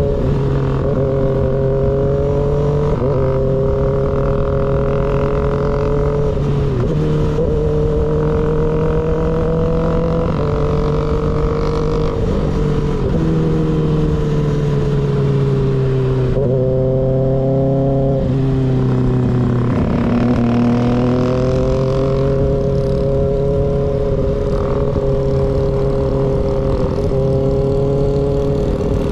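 Sport motorcycle engine with an unbaffled M4 GP19 slip-on exhaust, heard from on board while riding at a fairly steady engine speed. The pitch dips and climbs again several times as the throttle and gears change, over a steady rush of wind and road noise.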